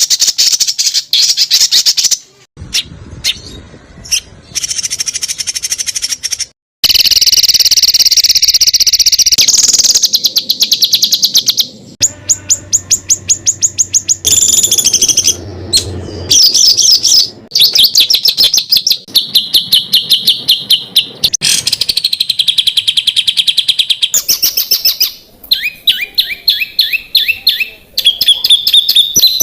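Songbirds singing rapid-fire trills and fast runs of repeated sharp, high notes, many strokes a second. The song comes in spliced segments that cut off abruptly. This is a masteran training track of 'tembakan' (rapid-fire) song, played to teach competition songbirds.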